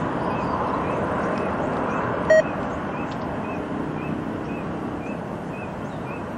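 Steady, distant jet roar of a departing Boeing 747-400's Rolls-Royce RB211 engines, easing off slightly as the aircraft climbs away. A single short beep sounds about two seconds in.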